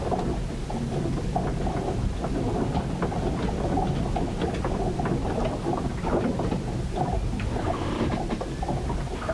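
A storm recorded aboard a ship: a steady low rumble under a dense, irregular patter of splashes and small knocks from water and rain.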